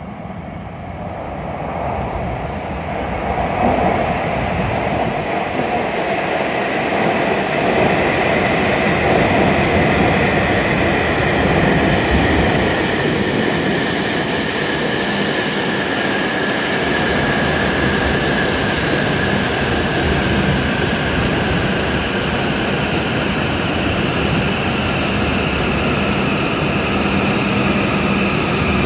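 E7 series Shinkansen train arriving at the platform and braking toward a stop. A rumble swells over the first few seconds as it comes in, then holds steady, with a high whine that slowly falls in pitch as the train slows.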